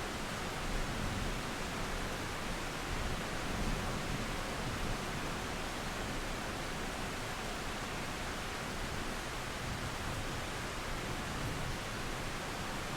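Steady rain mixed with running river water: an even, unbroken hiss.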